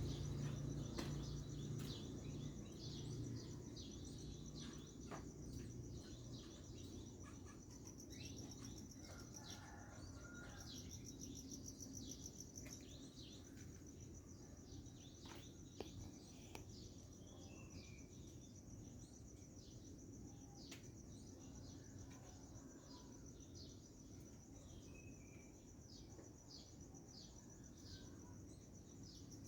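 Small birds chirping in short, quick falling notes, over a steady high-pitched insect trill like a cricket's. A low rumble fades away over the first few seconds.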